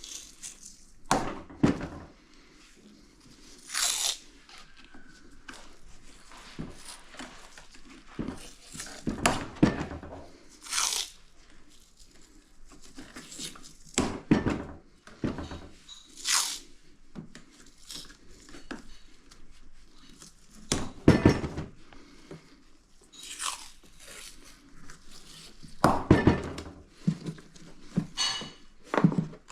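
Scattered crunching, rustling and scraping of hands working with materials, with a few sharp knocks and quiet gaps between, about a dozen separate noises.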